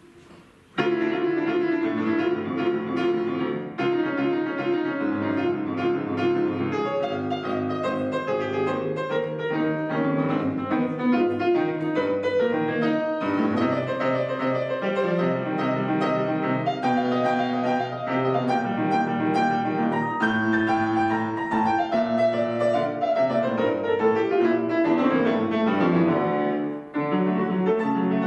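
Piano playing a classical-style piece, starting abruptly about a second in, with many notes across the range and a brief pause near the end.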